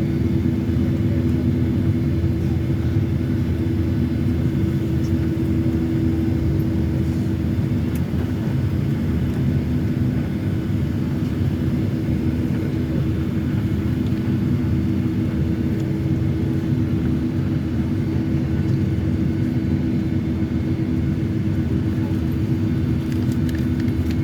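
Boeing 757-300 cabin noise while taxiing after landing: a steady low rumble with a constant hum from the engines and air system.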